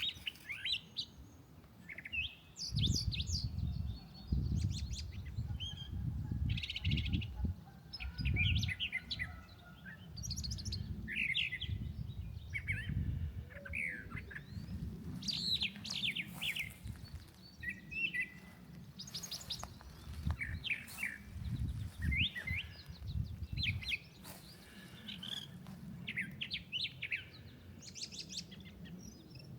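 Brown thrasher singing: a long string of short, varied, high phrases with brief gaps between them, over an irregular low rumble.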